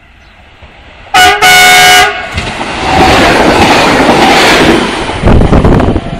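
Stadler FLIRT 3 electric multiple unit sounding its horn twice, a short blast then a longer one, very loud and chord-like. It then passes close by at speed with a loud rush of noise and wheels thumping over rail joints near the end.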